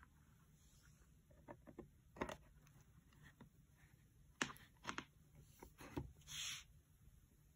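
Faint, steady low buzz from an electric bed's power supply, with several sharp clicks and a short hiss about six seconds in.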